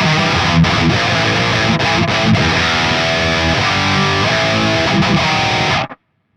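Jackson SL2 Pro Soloist electric guitar played over a backing track with drums and bass. The music cuts off suddenly near the end.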